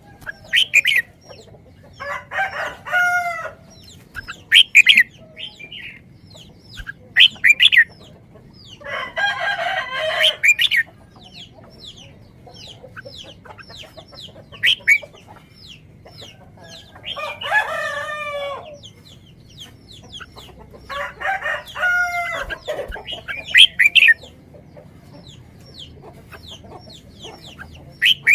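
Birds calling: four longer, harsh calls of a second or two each, with many short, high chirps in between.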